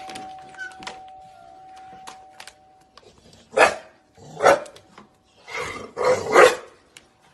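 A struck bell's ring fades away over the first two seconds or so. Then a dog barks four times, the last two close together.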